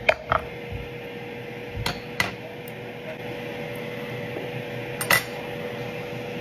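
Air fryer running with a steady hum, with sharp clinks of a spoon or dishes near the start, around two seconds in and again around five seconds.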